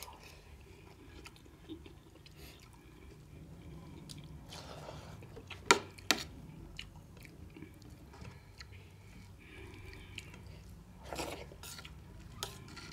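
People chewing and eating a meal of rice mixed with milk and vegetable curry: soft mouth sounds and small clicks. Two sharp clinks about six seconds in are the loudest sounds.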